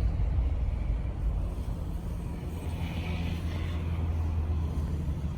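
Car driving: steady low hum of the engine and road noise, with a brief higher hiss about three seconds in.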